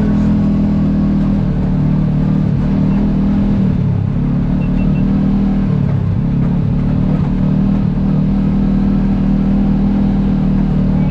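Side-by-side UTV engine running at steady trail speed, its pitch dipping briefly twice, about four and six seconds in, as the throttle is eased and picked up again.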